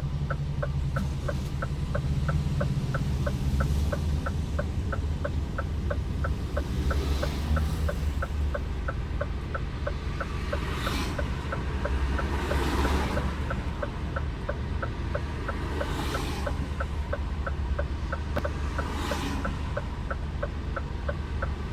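Scania R410 truck cab with the diesel engine running at a low drone while the indicator ticks evenly, about two to three clicks a second. The whoosh of passing traffic swells and fades several times.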